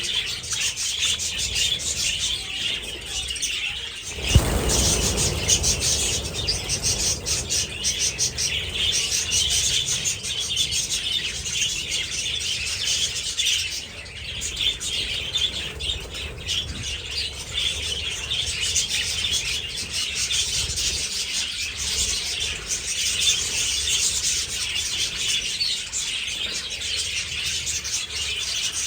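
A flock of budgies chattering and chirping without a break, a dense mass of overlapping high calls. About four seconds in, a sharp bump is followed by a couple of seconds of low rumble.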